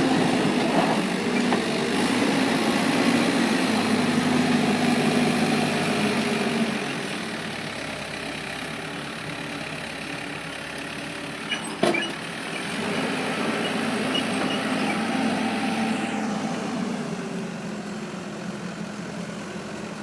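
Cat 287B compact track loader's diesel engine working, loud at first and then dropping to a lower, quieter note about a third of the way in. A sharp clunk comes just before the middle, then the engine picks up again for a few seconds and eases back toward the end.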